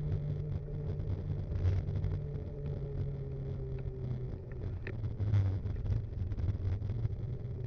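Steady low rumble and wind noise from a mountain bike rolling along a road, heard from an action camera fixed to the bike, with a few light rattles and ticks.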